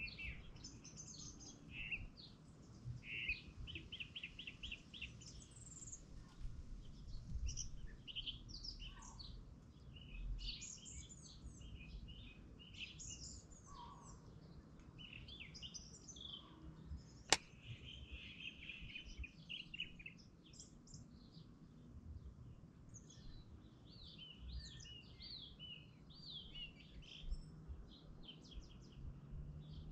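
Songbirds chirping and trilling, many short calls overlapping, with a low rumble underneath and one sharp click about seventeen seconds in.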